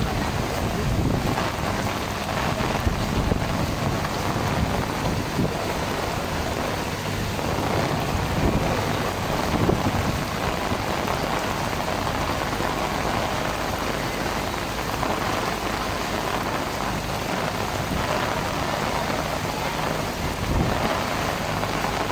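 Heavy rain falling steadily in a storm.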